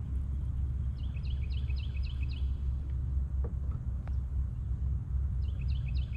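Steady low rumble of wind on the microphone outdoors, with a bird singing a quick run of short falling notes about a second in and again near the end.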